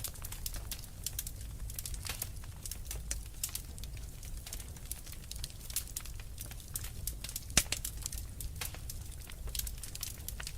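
Wood fire crackling: a dense, irregular run of small snaps and pops over a low rumble, with one louder pop late on.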